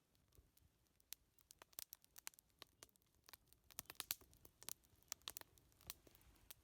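Wood fire crackling: irregular sharp pops and snaps, coming thickest about halfway through, over a faint low hiss.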